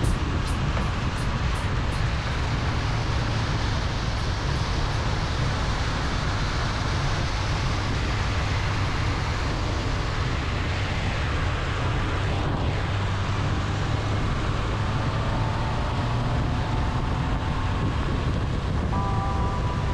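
Steady wind and road noise from a motorcycle riding at speed, heard on a helmet-mounted microphone, with the engine's low drone underneath. Near the end a few steady higher tones come in over the noise.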